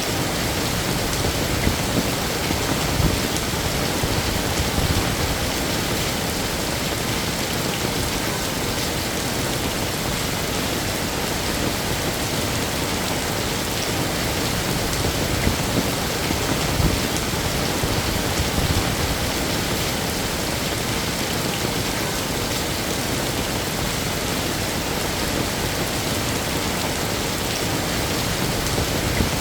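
Heavy rain falling steadily and densely, with scattered louder drops and splashes.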